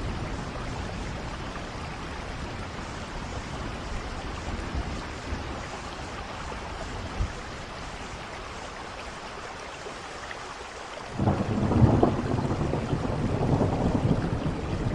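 Steady rain with a low background rumble. About eleven seconds in, a loud roll of thunder breaks in suddenly and keeps rumbling.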